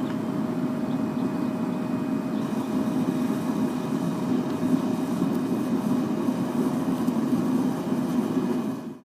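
Forced-air propane burner running steadily on an aluminum-melting furnace, with a faint steady whine over it. It cuts off suddenly near the end.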